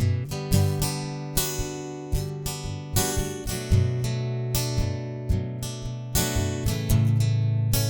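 Acoustic guitar strumming chords in an instrumental passage of a song, with a change of chord about three and a half seconds in and again near the end.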